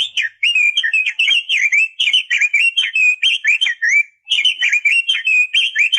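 Red-billed leiothrix singing: a rapid run of clear notes sliding up and down, in two long phrases with a short break about four seconds in.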